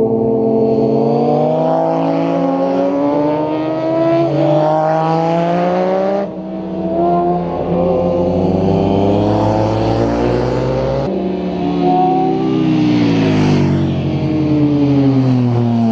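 Motorcycle engines revving hard through the bends, pitch climbing under acceleration and dropping back at gear changes and on closing the throttle. The sound changes abruptly about six and eleven seconds in.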